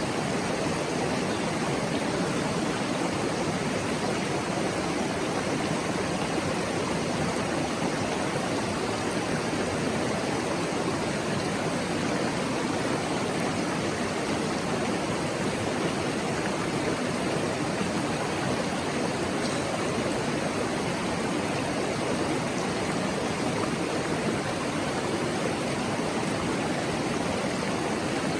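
Mountain stream rushing and babbling over rocks, a steady even flow of water.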